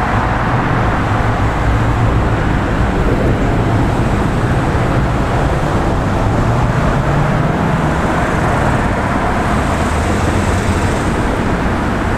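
Steady, loud road traffic on a busy overpass: a constant rush of passing cars and trucks with a low engine hum.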